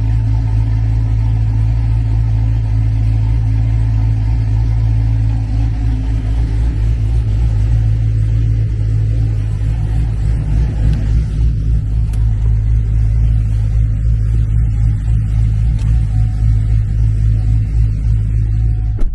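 Cadillac V's engine idling steadily through its aftermarket exhaust, a continuous deep exhaust rumble.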